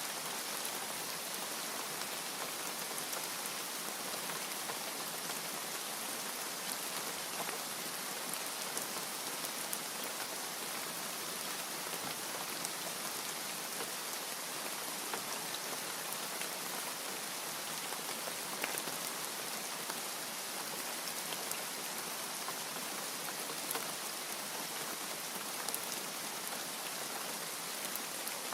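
Steady rain falling, a constant hiss scattered with many small drop ticks.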